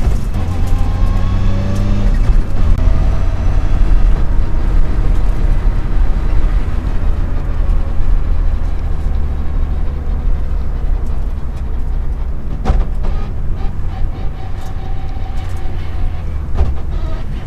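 Mitsubishi Lancer Evolution VI's turbocharged four-cylinder engine heard from inside the car, rising in pitch up to a gear change about two seconds in, then running steadily under a low road and tyre rumble. A single sharp knock about two-thirds of the way through.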